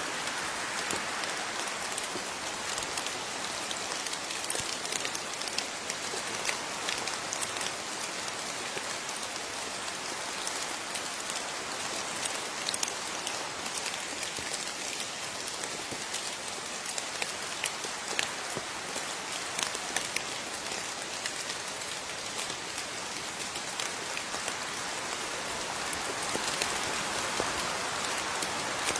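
Steady rain falling, with many individual drops heard tapping on a surface over the even hiss of the downpour.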